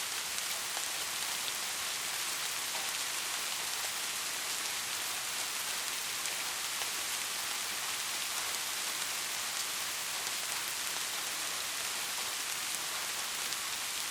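Steady rain falling: a dense, even hiss with faint scattered drop ticks and no thunder.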